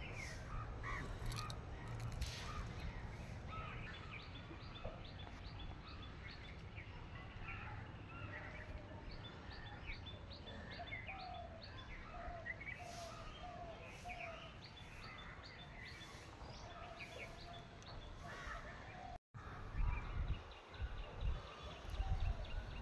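Birds chirping and calling, many short chirps and runs of short repeated notes, over a steady low outdoor rumble. The sound drops out for a moment near the end, then the low rumble comes back louder.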